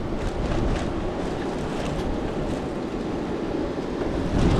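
Steady wash of ocean surf and wind noise on the microphone, with a few faint ticks.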